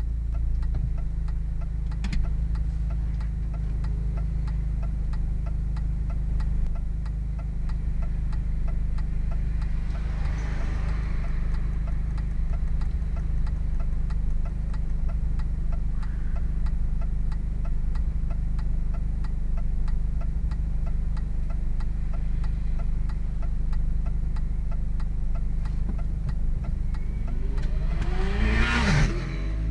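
A MINI's engine breathing through a Hayward & Scott aftermarket exhaust, running at a steady speed. A fast, regular ticking runs alongside it. Near the end the revs rise sharply and fall straight back.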